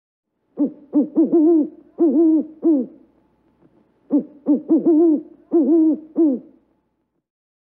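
Owl hooting: two series of six or seven short hoots, each note rising and falling in pitch, with a pause of about a second between the series.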